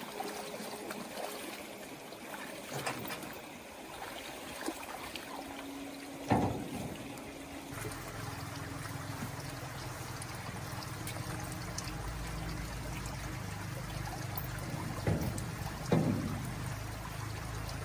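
Water trickling and pouring, with a few sharp knocks. A low steady motor hum sets in about eight seconds in.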